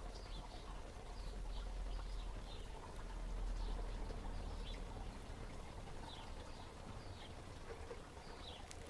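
Small birds chirping in the background, many short high chirps coming irregularly, over a steady low rumble.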